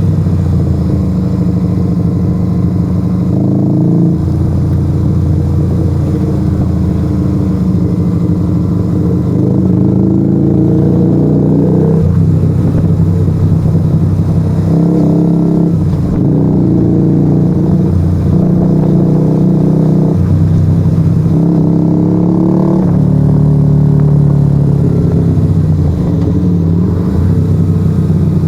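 Straight-piped Yamaha XV125 Virago 125 cc V-twin running loud under way, with no dB killer in the Turbo Kit exhaust. The engine note rises and drops several times as the throttle and revs change.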